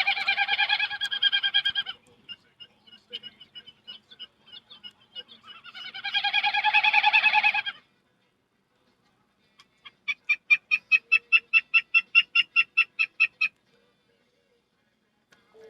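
A person imitating bird calls with her voice: two buzzy trills of about two seconds each with fainter chips between them, then near the end a fast, even run of short clipped notes, about five a second.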